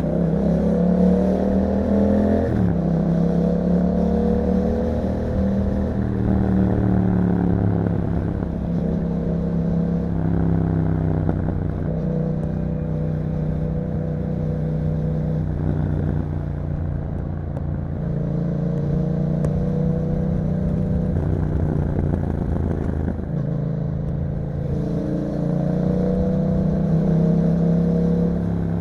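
2021 Yamaha MT-07's 689 cc parallel-twin engine through an Akrapovic exhaust, pulling under way. The revs rise over the first two seconds, drop at a gear change about two and a half seconds in, then hold fairly steady, climbing again near the end.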